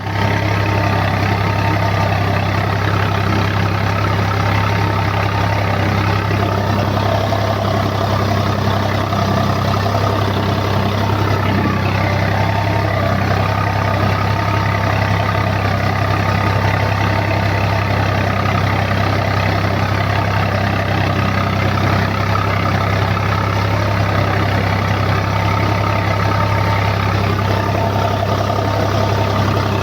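Eicher tractor's diesel engine running steadily at a constant low speed.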